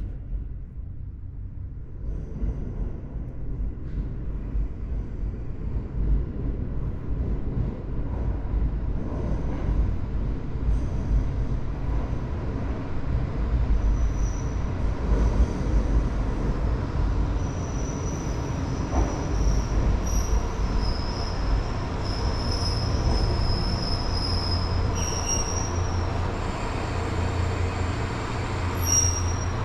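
Train running on rails with a steady low rumble; from about halfway on, high-pitched wheel squeal comes and goes, strongest in the last third.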